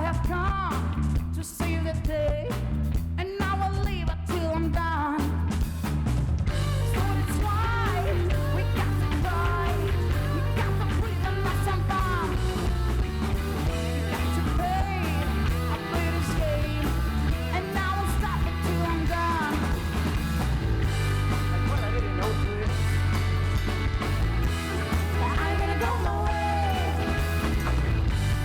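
Live rock band playing, with a wavering lead voice over bass and drums. Sparse for the first few seconds, then the full band comes in about six seconds in.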